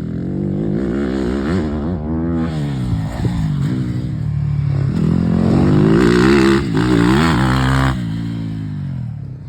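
Yamaha YZ250F four-stroke motocross bike engine being ridden, its pitch rising and falling over and over as the throttle is opened and closed. It is loudest about six to eight seconds in, then eases off near the end.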